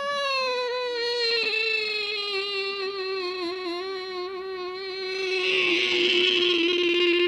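A long, high-pitched sustained tone, one of the weird sounds used to make a puppy tilt its head. It slides slowly down in pitch with a slight waver, and turns raspy and buzzy about five and a half seconds in.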